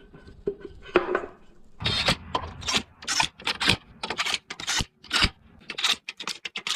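Metal parts rasping and scraping in short, quick strokes, about two or three a second from about two seconds in, after a few light knocks. The strokes come as a part is worked to fit around the engine's oil fill spout.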